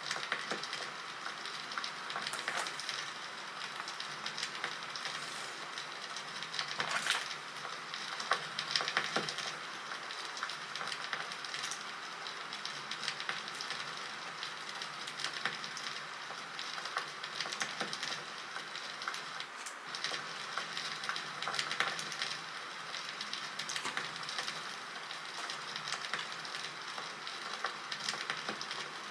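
Crackling campfire sound effect: a steady hiss of small pops and snaps from burning wood, with a few louder cracks about seven and nine seconds in.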